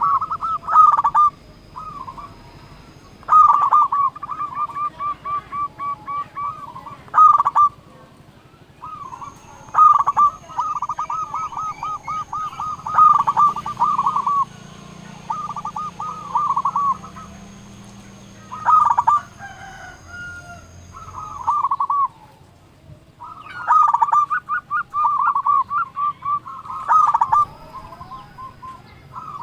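Zebra dove cooing: phrase after phrase of rapid, rolling repeated notes, each phrase a second or few long, with short pauses between.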